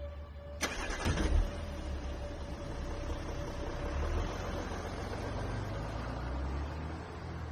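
Vehicle engine and road rumble, opening with a sharp hit about half a second in, over a faint held music tone.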